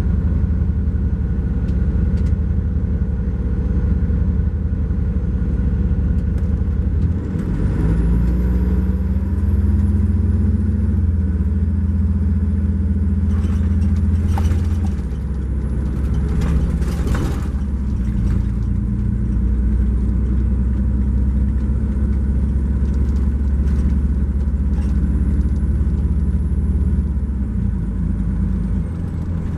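MCI J4500 coach's Cummins ISX12 diesel engine running under way. Its note shifts about 7 seconds in and a thin high whistle comes up and holds until near the end. A few short rattles come around the middle.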